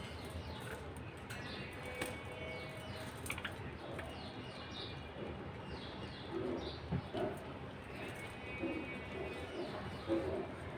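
Budgerigars chattering: a stream of short falling chirps mixed with buzzy warbling notes.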